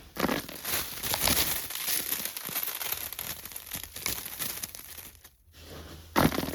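Irregular crinkling and crackling with small sharp clicks. It dies away briefly about five seconds in, then a loud knock sounds near the end.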